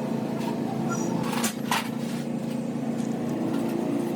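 A small engine running steadily at an even pitch, with a few short sharp clicks about a second and a half in.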